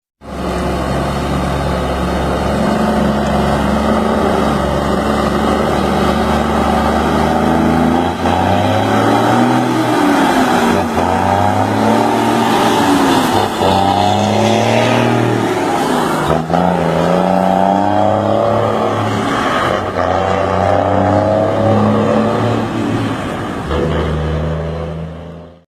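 Truck engine running steadily at low revs, then accelerating through the gears, its pitch climbing and dropping several times, before settling back to a steady low note and cutting off.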